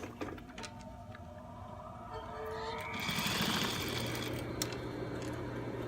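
Sewing machine starting to stitch a seam, its motor whine rising in pitch over the first few seconds, then running steadily.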